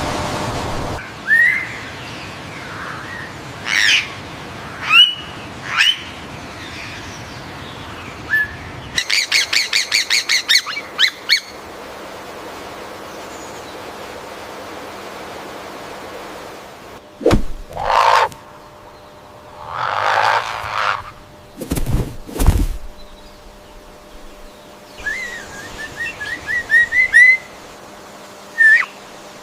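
Calls and songs of several different birds in short passages spliced together: rising whistled notes, a rapid run of sharp repeated notes, some loud harsher calls, and a fast trilled series near the end.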